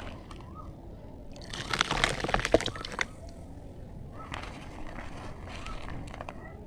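Water sloshing and splashing close up, with crackly clicks, in two bursts: a louder one about two seconds in and a second a little after four seconds.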